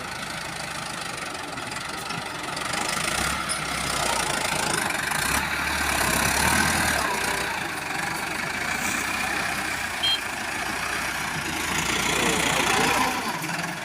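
Tractor diesel engine running steadily, its level swelling and easing a couple of times.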